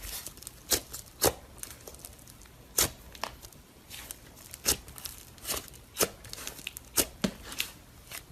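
Butter slime being handled, giving a dozen or so sharp sticky pops and clicks at irregular intervals.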